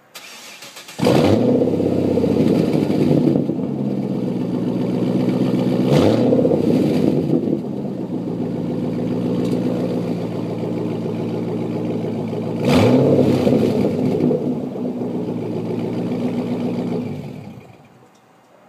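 Starter cranking briefly, then the 2006 Cadillac CTS-V's 6.0-litre LS2 V8 catching with a loud flare through a straight-piped exhaust with long-tube headers and open-able cutouts. It idles, is blipped twice with short revs (the first with the exhaust cutouts closed, the second with them open), and then shuts off near the end.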